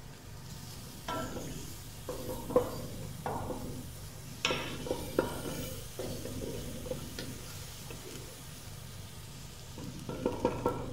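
Sliced onions and garlic frying in butter in an aluminium pot, being stirred so the utensil scrapes and knocks against the pot a dozen or so times, in a cluster near the start and again near the end. A steady low hum runs underneath.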